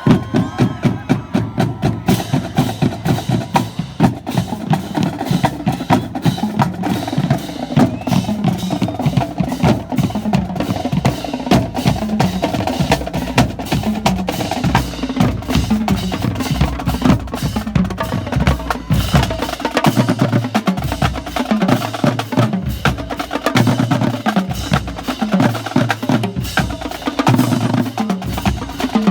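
Marching drumline playing a fast cadence: snare drums, multi-tenor quads and tuned bass drums, with the bass drums moving between pitches under a rapid run of strokes.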